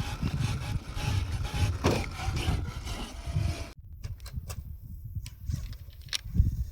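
Motor and drivetrain of a 1/7-scale Rlaarlo JK07PRO RC trail truck running, a thin steady whine over a noisy, gritty grinding, cutting off suddenly about four seconds in. Low thumps continue afterwards.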